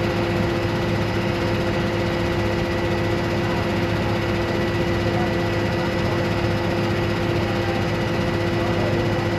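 Steady engine drone with a few constant hum tones, unchanging throughout.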